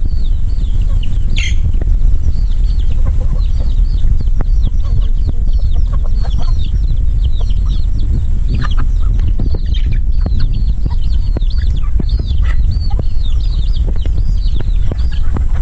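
Chickens clucking, with many short, high, falling peeps. Heavy wind rumble on the microphone runs underneath.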